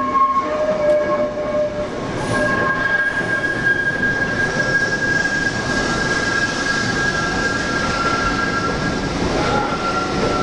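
Steam-hauled train running on the rails, a steady rumble and hiss with high squealing tones held over it, one of them shifting to a lower pitch a little after halfway.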